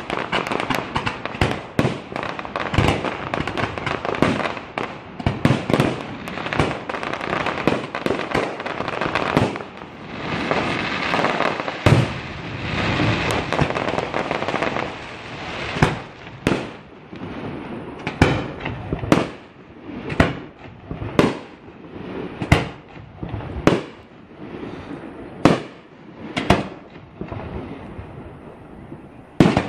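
Fireworks going off: a dense run of rapid bangs and crackling through the first half, with a stretch of continuous crackle around the middle, then single shots about one a second, and one last bang near the end.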